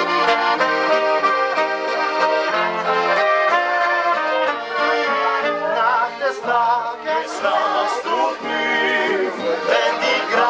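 Accordion playing the instrumental introduction of a slow folk song in held chords, with a wavering melody line coming in about halfway through.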